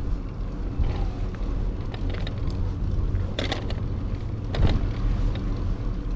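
Steady low rumble of wind on the microphone and the rolling of a bicycle ride, with a few short higher sounds about halfway through.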